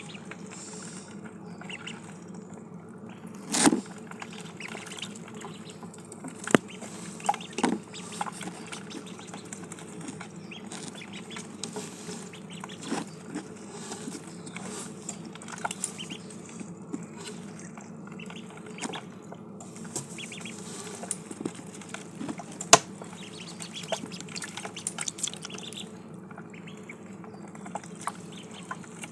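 Ducklings eating and drinking: many small pecking clicks and taps against their food and water, with a few louder knocks. A steady low hum runs underneath.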